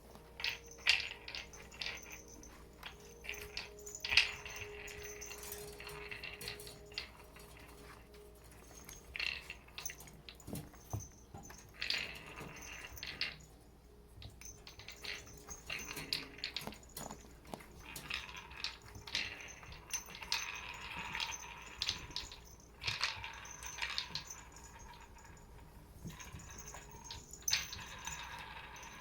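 Cats playing with toys, making irregular clicks, clatters and rattles in quick clusters.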